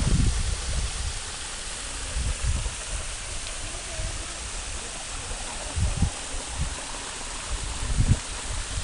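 Freshwater waterfall pouring steadily onto the beach, a continuous rush of falling water, with a few brief low buffets in the latter half.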